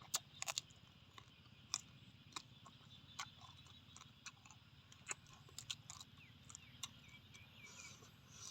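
Scattered sharp clicks and taps at an irregular pace, a few of them louder, over a faint steady low hum.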